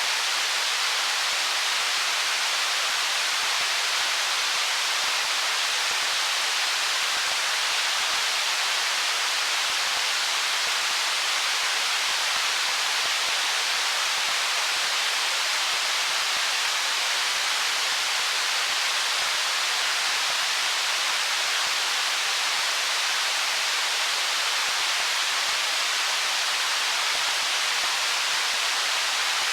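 Stream water rushing over stones: a steady, even hiss-like rush with no breaks or changes.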